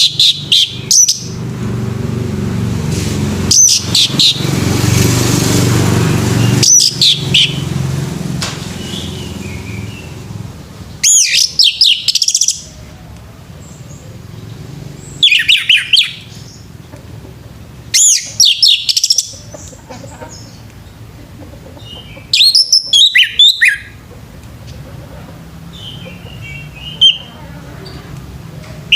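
Male orange-headed thrush singing in short, loud phrases of rapid high whistled notes that glide downward, about a second each and a few seconds apart, over a steady low background hum that fades after the first third.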